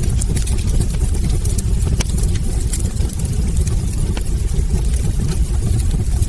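Wood fire burning in a fireplace: logs crackling with frequent sharp pops and snaps over a steady low rumble of the flames.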